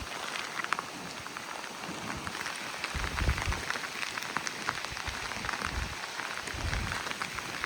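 Heavy typhoon rain, a dense spatter of drops hitting a hard surface, with low rumbles of wind gusts about three seconds in and again near the end.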